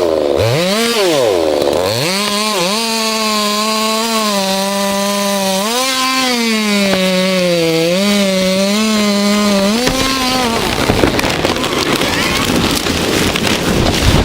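Chainsaw engine running at high revs while cutting: twice in the first two seconds the pitch drops sharply and comes back up, then it holds with small sags under load. About ten and a half seconds in the engine tone gives way to a loud, rough, noisy rush.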